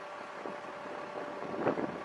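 Wind buffeting the microphone over a vehicle's steady running noise, with a brief louder knock near the end.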